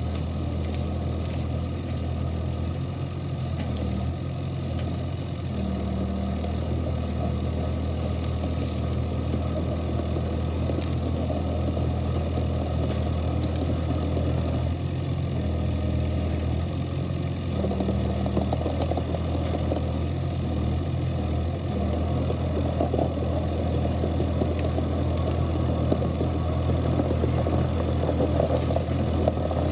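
Kubota KX71-3 mini excavator's diesel engine running steadily under working load, its note shifting every few seconds as the hydraulics are worked, with rougher clattery noise building in the second half.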